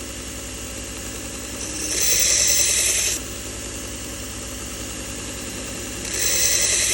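A 1x30 belt grinder's motor running steadily at low speed, with two spells of hissing grinding, about two seconds in and again near the end, each roughly a second long, as a steel knife blade is pressed lightly into the slack 120-grit Cubitron belt.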